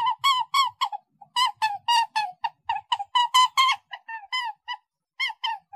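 A bird calling: a fast series of short, pitched, slightly falling notes, about four a second. The calls pause briefly about a second in and again near the end.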